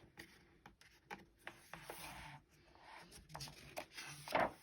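Paper rustling and rubbing as the pages of a picture book are handled and turned, with a louder page swish near the end.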